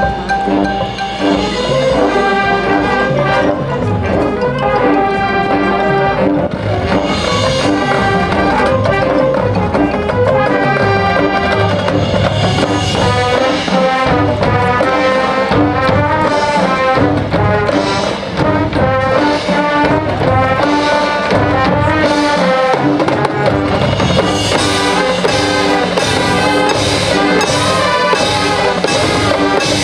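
High school marching band playing its field show: massed brass (trumpets and trombones) sounding sustained chords over marching percussion, at a steady loud level.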